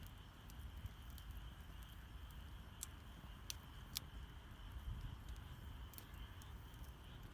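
Wood campfire burning with scattered sharp crackles and pops over a low steady rumble, and a steady high-pitched drone in the background.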